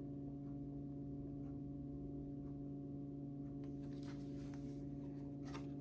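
Faint steady low hum, with a few faint light rustles in the second half.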